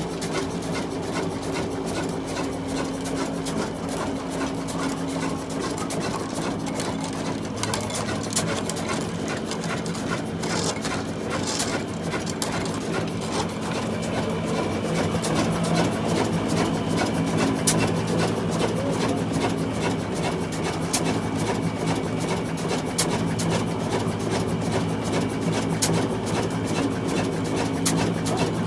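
Old diesel engine of a flour mill running at a steady speed, with a rapid mechanical clatter over its low hum; it grows a little louder about halfway through.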